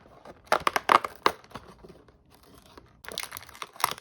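Cardboard and plastic tearing and crinkling as an advent calendar window and the wrapped treat packet inside it are opened. It comes in two bouts of crackly ripping, one about half a second in and another about three seconds in.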